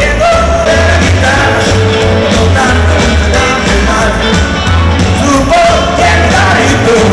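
Rock and roll band playing loudly with a singer over a pulsing bass line.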